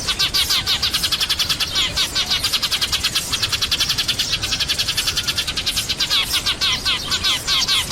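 A flock of sparrows chirping continuously, a dense stream of rapid overlapping chirps, many each second.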